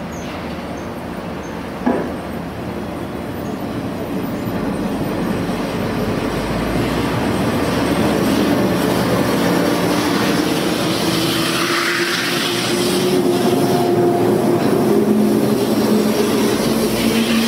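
485 series 3000 limited express electric train running into the platform and past close by, its wheels rumbling and clacking on the rails, getting louder as the cars go by. A single sharp knock comes about two seconds in, and a wheel squeal of several held tones rises over the rumble in the second half.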